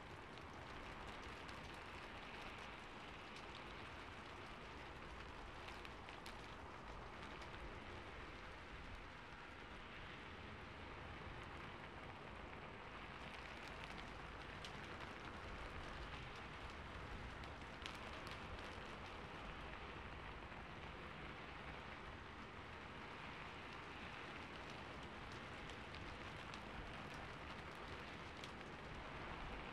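Faint, steady rain falling on a rooftop, an ambience recording: an even hiss of rain with scattered sharper drops ticking through it.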